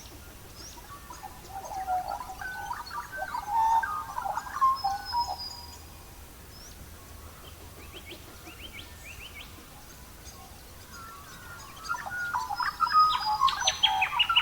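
A songbird singing quick warbling, chirping phrases, one starting about a second and a half in and another from about eleven seconds in, over a faint steady hiss.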